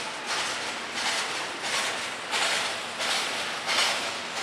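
Double-stack container cars of a freight train rolling past, their wheels clattering on the rails in a regular rhythm of swelling pulses, about one and a half to two a second.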